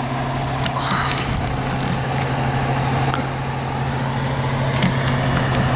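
Steady low hum of an idling vehicle engine, with a short higher-pitched noise about a second in and another at the end.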